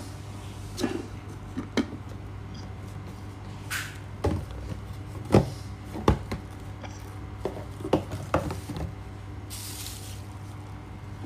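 Hard objects being handled: a dozen or so scattered knocks and clicks and a brief rustle near the end, over a steady low electrical hum.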